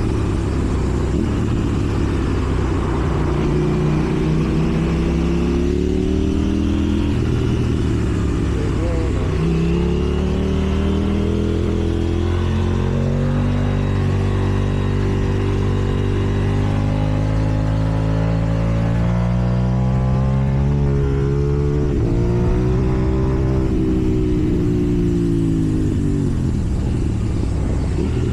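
KTM 790 Duke's parallel-twin engine under way, its pitch climbing under throttle and dropping back several times, with big falls about eight seconds in and again about twenty-one seconds in.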